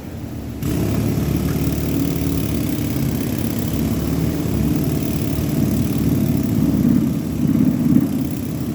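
A motor or engine running steadily, coming in suddenly about half a second in.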